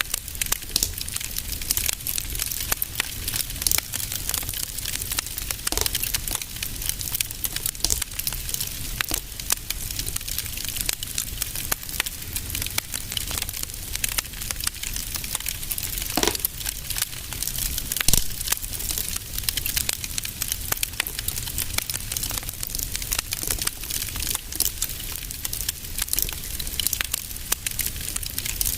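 Fire crackling in a fireplace: dense, irregular crackles and small pops over a low rumble, with two sharper pops a little past the middle.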